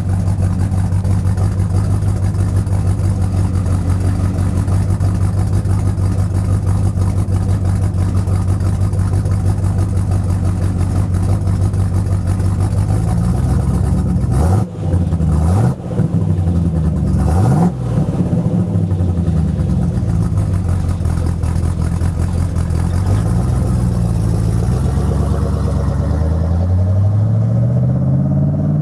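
1974 Dodge D100's 361 big-block V8, breathing through an X-pipe and dual Pypes M80 mufflers, idling steadily. About halfway through it is revved repeatedly, engine speed rising and falling, with a few quick sharp blips and a longer climb near the end.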